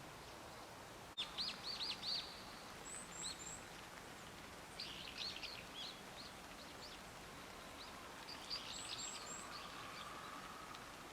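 Small wild birds chirping in three bursts of quick short calls, with a few thin, very high notes in between.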